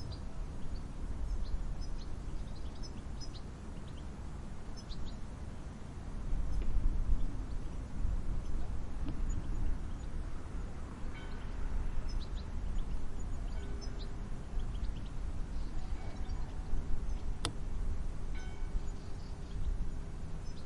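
Low rumbling wind, swelling and easing in gusts, with scattered short chirps of distant birds. A faint steady hum comes in about two-thirds of the way through, and a single sharp click sounds near the end.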